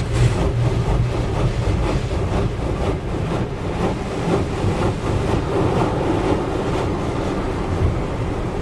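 Tunnel car wash equipment working over the car, heard from inside the cabin: a steady rumbling rush of cloth brushes and water against the body, with faint regular slapping strokes.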